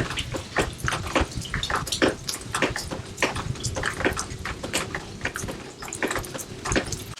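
Water dripping and splashing, with many irregular sharp drops each second.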